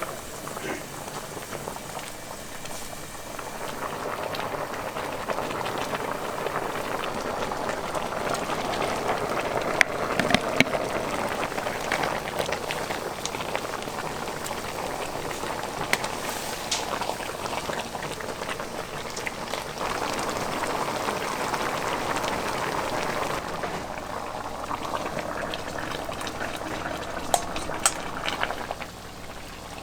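Liquid boiling hard in a pot, a dense, continuous bubbling, with a few sharp knocks about ten seconds in and again near the end.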